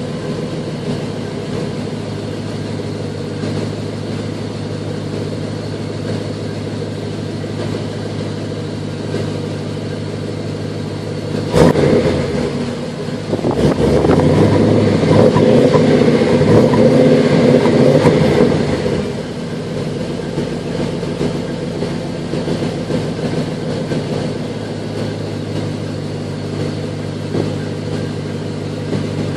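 Holden VS V8 wagon's engine idling steadily through its exhaust. It gets a sharp throttle blip about a third of the way in, then is revved and held for about five seconds before dropping back to idle.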